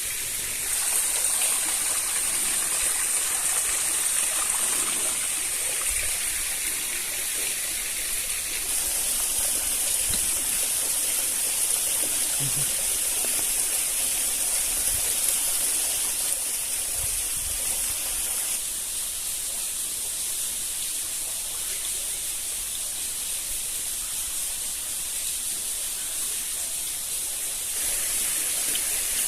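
Steady rushing of flowing water, a stream or small waterfall, with no distinct events. Its level steps up or down a few times, about a second in, near nine seconds, near eighteen seconds and near the end.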